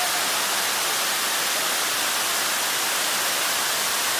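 Steady rush of a large waterfall pouring into a sinkhole, a constant even roar of falling water.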